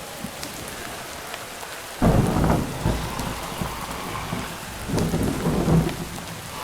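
Steady rain falling, with a sudden clap of thunder about two seconds in that rumbles on for about four seconds, swelling again near the end.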